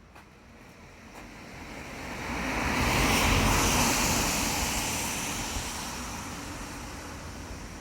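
A vehicle passing on a wet road. Its tyre hiss swells to a peak about three seconds in, then slowly fades away.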